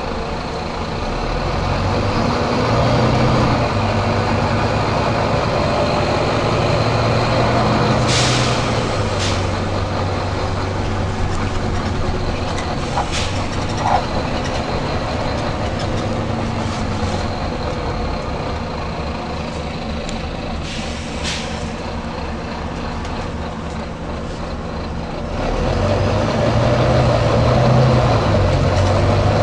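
Volvo B9TL double-decker bus's diesel engine running, with several short hisses of air from its air system, the longest about eight seconds in. Near the end the engine note rises and grows louder.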